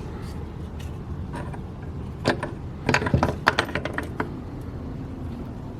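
Loose metal engine parts clinking and rattling as they are handled, with a burst of sharp clicks about three to four seconds in, over a low steady hum.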